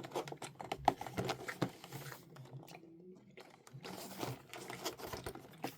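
A person chewing soft, chewy gummy sweets, with irregular small wet mouth clicks and smacks.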